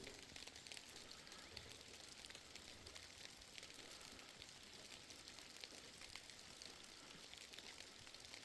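Near silence: a faint steady hiss with scattered light ticks.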